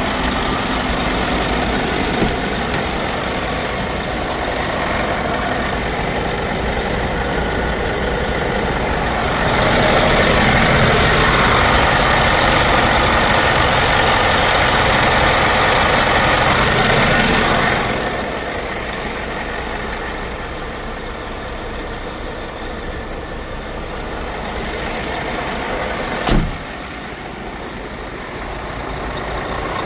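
Scania P400 truck's 13-litre inline-six diesel running steadily, getting louder for about eight seconds in the middle, then dropping back. One short sharp sound near the end.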